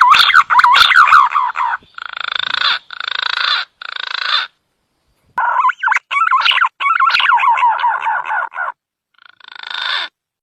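Green pigeon (punai) calls played as a bird lure: wavering whistled notes that rise and fall, then a run of harsh, croaking calls that start and stop abruptly, with short silent gaps between them.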